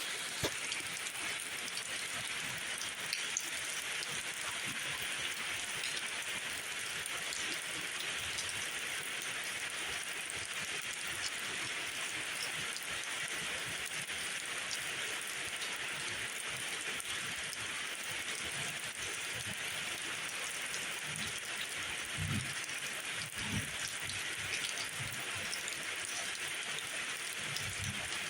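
Steady rainfall, an even patter of drops, with a few soft low thumps in the last third.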